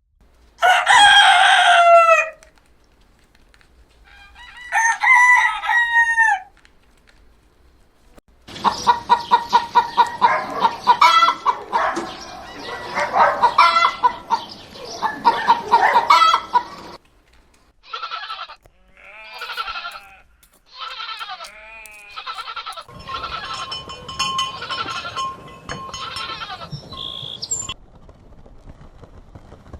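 A rooster crows twice, then a flock of chickens clucks and squawks loudly, with further shorter fowl calls after.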